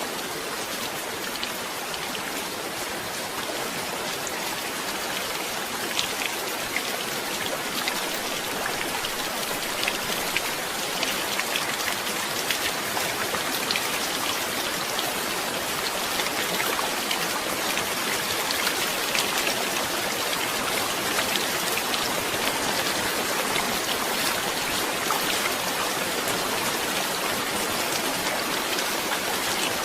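Steady heavy rain falling, with many sharp drops ticking on a hard surface; it grows a little louder over the first few seconds.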